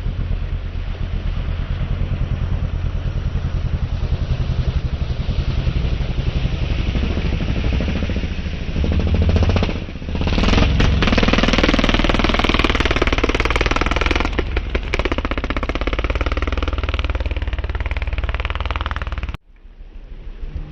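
Racing engines running at a race, a steady low rumble that swells louder and harsher through the middle, then cuts off abruptly near the end.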